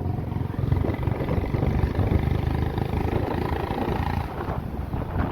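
Motorcycle running on the road, a dense low rumble with some wind on the microphone.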